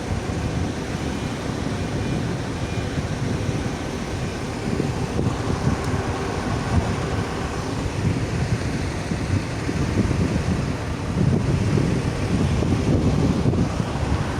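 Wind buffeting the phone's microphone: a steady, uneven rushing noise that grows stronger in the last few seconds.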